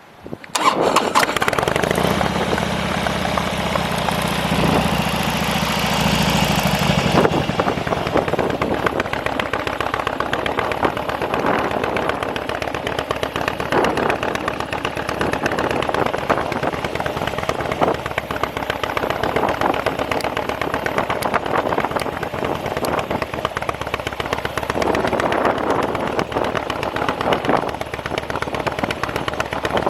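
Fuel-injected Harley-Davidson Dyna Street Bob V-twin with an aftermarket muffler starting up about half a second in. It runs at a faster idle for several seconds, then settles to a steady, lower idle about seven seconds in.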